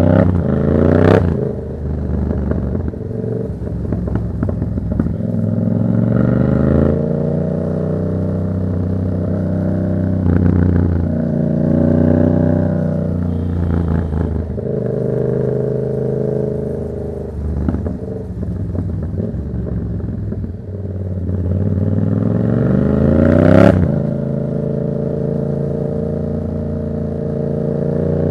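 Yamaha MT-07's 689 cc parallel-twin engine through a Black Widow exhaust with no dB killer, accelerating hard through the gears: the pitch climbs, drops back at each shift, and climbs again, over and over. Two sharp cracks stand out, about a second in and again near the end.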